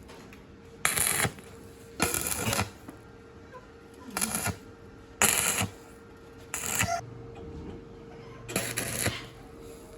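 Six short noisy strokes, each about half a second long, at irregular intervals, over a faint steady hum.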